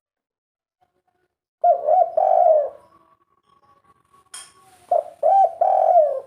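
Spotted dove cooing in its 'kuk 3' style: silence, then a short phrase of rhythmic coos about a second and a half in, and a second phrase starting near the end. A brief sharp rattle is heard between the two phrases.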